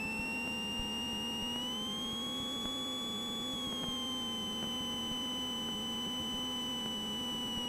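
Steady high electrical whine in a Cessna 172's headset intercom audio, with a low engine hum beneath. The whine rises in pitch about a second and a half in and falls back about four seconds in.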